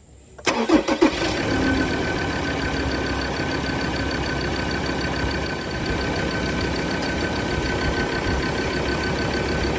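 Car engine started about half a second in, with a brief loud burst as it cranks and catches, then idling steadily.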